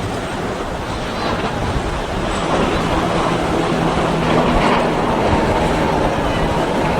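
Power boat engine running as it passes through the inlet, a steady low engine drone coming in about two and a half seconds in, over the rush of wind and surf.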